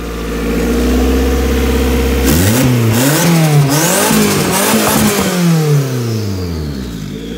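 Turbocharged Honda four-cylinder engine idling, then revved repeatedly in quick rises and falls from about two seconds in, dropping back to idle near the end. A faint high whistle falls in pitch as the revs come down.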